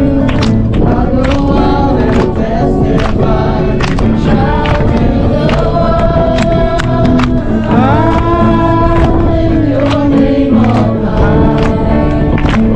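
Christian worship song: voices singing together over a band with a steady drum beat.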